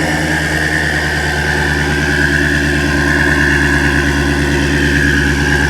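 Twin-turbocharged Shelby GT350R's 5.2-litre flat-plane-crank V8 idling steadily, with a steady high whine over the exhaust note.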